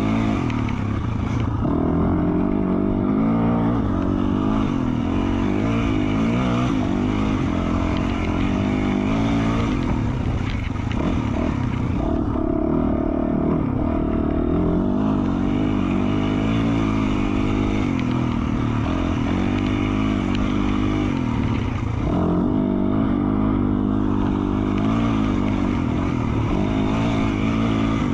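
A 2020 Yamaha YZ450F's 450 cc four-stroke single-cylinder engine, breathing through an FMF Q4 slip-on exhaust, is revved up and down over and over as the dirt bike is ridden along a trail. Its pitch climbs and drops with the throttle and the shifting.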